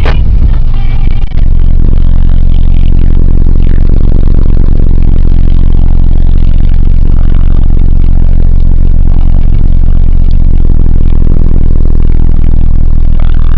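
1998 Nissan Eagle pickup truck's engine running at a steady speed, very loud and distorted on the microphone, after a sharp click at the very start.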